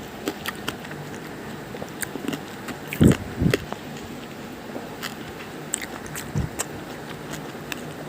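Close-up crisp clicking and crackling, with two louder low thuds about three seconds in and a smaller one near six and a half seconds.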